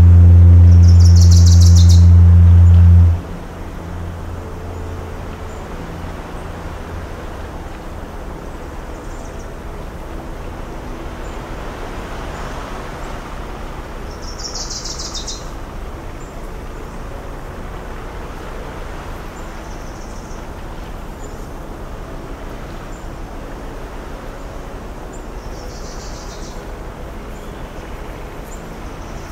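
A loud foghorn blast, one deep steady tone that cuts off about three seconds in, leaving a fainter echo for a few seconds more. Birds chirp a few times over a steady hush of softly breaking waves.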